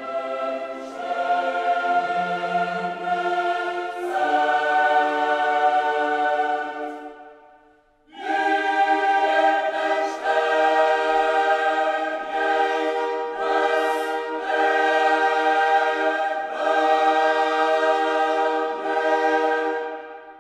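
Slow choral music: voices holding sustained chords in long phrases. The first phrase fades out about seven seconds in, and a second phrase swells in about a second later.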